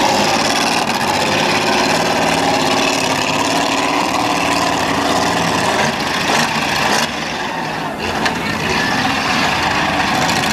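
Engines of several demolition derby cars running together in a loud, continuous din, with a few short sharp knocks about six to seven seconds in.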